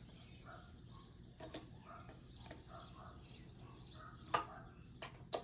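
Birds chirping faintly in the background, with three sharp clicks or knocks in the last second and a half.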